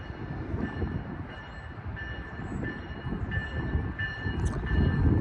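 Metra Electric double-decker electric multiple unit approaching, its rumble growing louder toward the end, with thin high steady tones coming and going over it.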